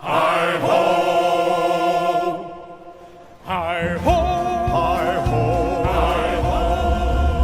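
Ride soundtrack music: voices singing long, swelling choral notes in two phrases, the second beginning about three and a half seconds in. A low rumble joins underneath in the second half.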